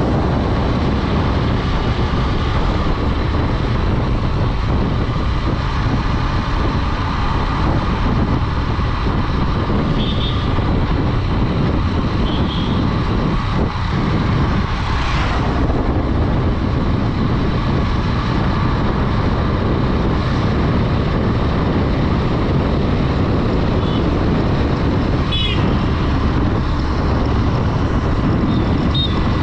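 Honda Dream 110's small single-cylinder four-stroke engine running at steady cruising speed, with heavy wind rush over the microphone.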